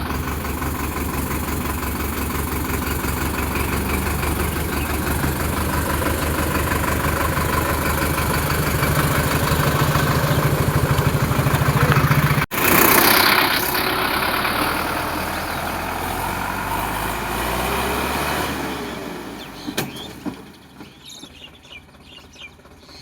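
Sonalika DI 750 tractor's diesel engine running with an even firing beat, a sudden louder burst about halfway through, then fading away over the last few seconds.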